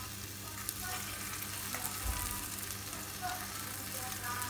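Apple pieces sizzling in a stainless steel saucepan as they caramelise, stirred with a spoon that gives a few light clicks against the pan.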